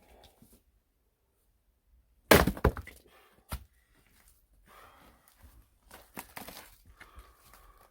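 Firewood being handled: a loud crack and thunk of wood a little over two seconds in, a single sharp knock about a second later, then lighter knocks and clatter of logs.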